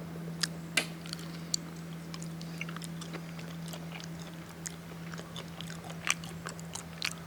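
Chewing close to the microphone: scattered small clicks and crackles at irregular times, over a steady low hum.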